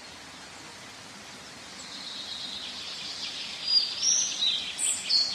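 Outdoor nature ambience: a steady soft hiss, with several short, high-pitched bird chirps over the last second and a half.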